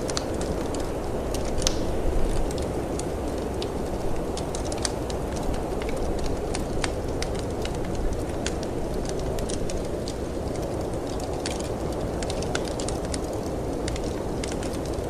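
Wood fire crackling in a fireplace, with irregular sharp pops and snaps. Underneath is a steady low rush of wind from a snowstorm.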